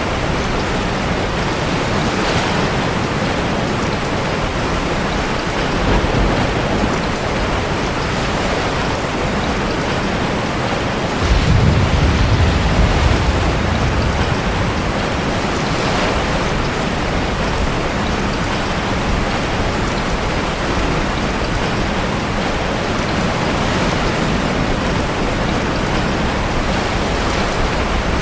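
Steady heavy rain with sea waves surging in a coastal cave. A deep rumbling surge swells about eleven seconds in and lasts a few seconds, with a smaller one around six seconds.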